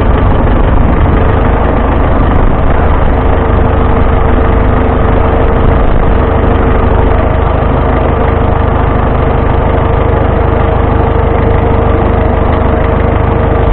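Vintage farm tractor engine running at a steady speed, loud and unchanging, with a steady tone above the low engine drone.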